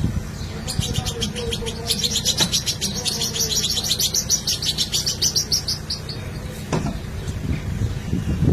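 A bird giving a fast, even run of high chirps, about ten a second, lasting roughly five seconds, over a low steady hum.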